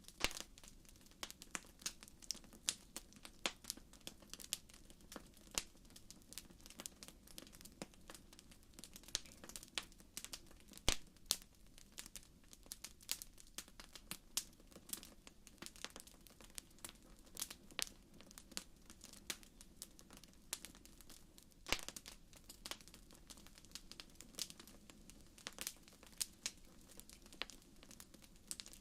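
Wood fire burning in a fireplace: irregular crackles and pops over a faint low hiss, with a few louder pops.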